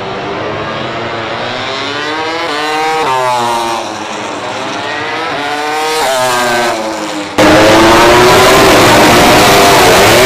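MotoGP racing motorcycle engines revving hard, their pitch climbing and dropping several times with gear changes. About seven seconds in the sound cuts abruptly to a much louder, closer engine at high revs.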